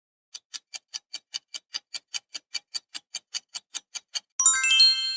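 Countdown-timer sound effect: fast clock ticking at about five ticks a second for around four seconds, then a short chime of several high notes that come in one after another near the end, marking time up.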